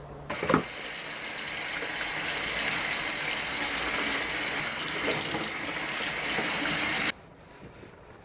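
Running water, a steady gush that starts suddenly just after the beginning and cuts off sharply about a second before the end.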